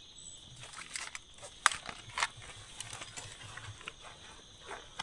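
Insects chirring steadily in the forest, with scattered clicks and knocks over them; the sharpest click comes a little under two seconds in.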